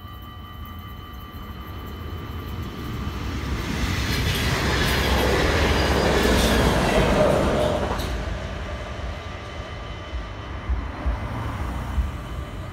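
NS double-deck DDAR electric train passing a level crossing: its rumble builds, is loudest for a few seconds around the middle, then fades after about eight seconds. Throughout, the electronic crossing bells ring on a steady tone.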